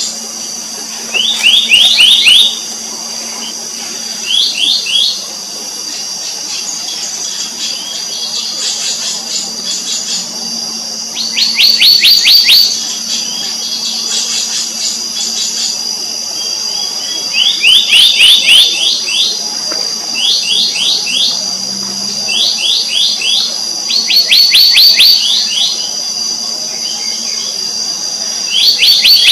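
Black-naped monarch calling: loud, quick runs of five to eight sliding whistled notes, each run lasting about a second and repeated every few seconds. A steady high-pitched ringing drones underneath.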